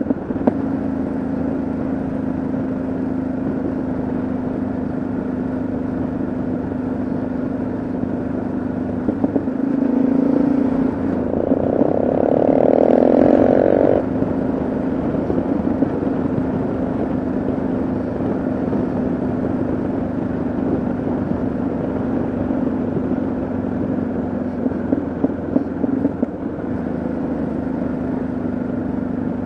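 Yamaha XT660Z Ténéré's single-cylinder engine running steadily while riding at road speed. It gets louder for a few seconds near the middle, then settles back to an even drone.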